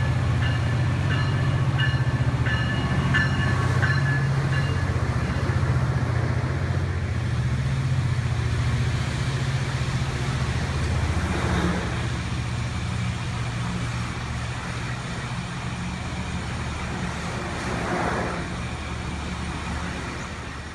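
Amtrak Pacific Surfliner's diesel locomotive pulling the train out of the station, its engine a steady low drone that slowly grows quieter as the train moves away.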